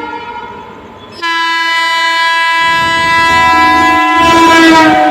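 Locomotive horn: a fainter tone, then a loud, sustained blast from about a second in. Its pitch sags slightly near the end as the train passes, over the rising rumble of the train.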